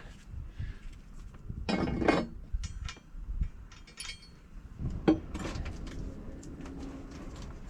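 Metal parts and tools clinking, knocking and scraping as a large turbocharger is handled and fitted, with a short scraping rattle about two seconds in and a sharp knock about five seconds in.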